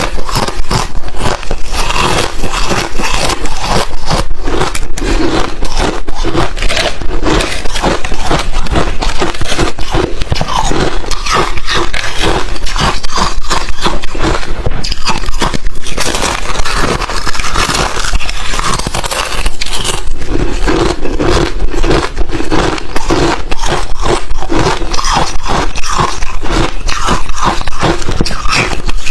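A person biting and chewing crushed chips of refrozen ice close to the microphone: a loud, dense, continuous run of crunchy cracks and crackles.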